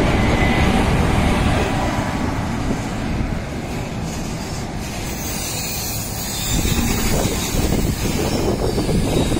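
Indian Railways freight train passing close by, its electric locomotives and then loaded coal wagons rolling along the rails. There is a steady noisy rumble of wheels on track that eases a little in the middle and grows louder again about six and a half seconds in.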